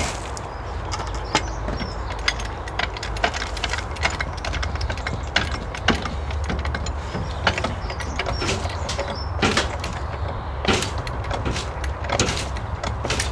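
Irregular knocks, clicks and rattles of a glass greenhouse's frame and panes as it is pushed and levered back into place on its slab, over a steady low rumble.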